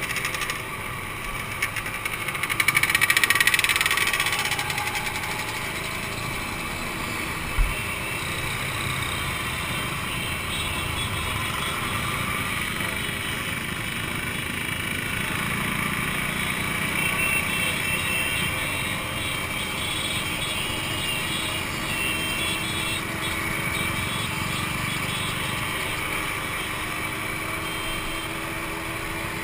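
Two-stroke motorcycle engines running, with a loud rise in revs a few seconds in and a single short thump about a quarter of the way through.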